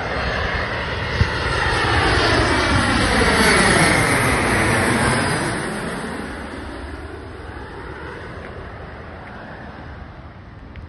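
An Embraer E175 regional jet's twin GE CF34 turbofans passing low overhead on landing approach. The engine noise swells to its loudest a few seconds in, with a whooshing sweep in tone as the jet passes, then fades away.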